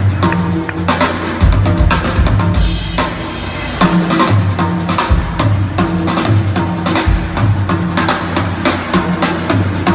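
Drum kit played solo live: a dense run of strokes on bass drum, snare and toms, with rimshots.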